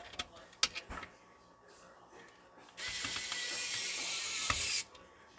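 A few small clicks and taps of screws and plastic parts, then a screwdriver ratcheting quickly and evenly for about two seconds while driving a screw.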